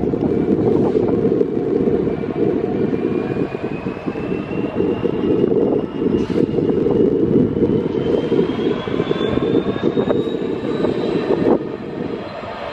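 A train running through the station: a loud, steady rumble with a faint whine that rises slowly in pitch as it gathers speed. The rumble falls away suddenly near the end.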